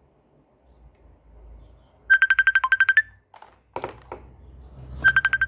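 An electronic ringtone: two short phrases of rapid high beeps, each dipping to a lower note and ending on a slightly higher tone, with a few knocks between the phrases.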